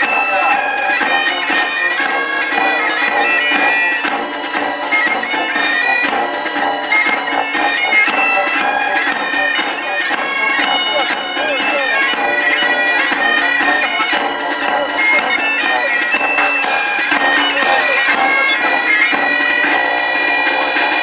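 Bagpipes playing a tune over steady sustained drones, loud and continuous.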